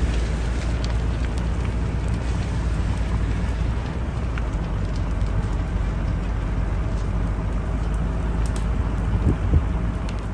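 A wildfire burning, heard as a steady rushing noise with scattered crackles, and wind on the microphone making a heavy low rumble.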